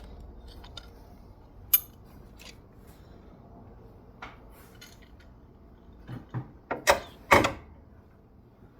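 Metal C-clamp and hand tools being worked to press a shift pawl pin back in: scattered sharp metal clicks and clinks, with a louder cluster of clanks about two thirds of the way through.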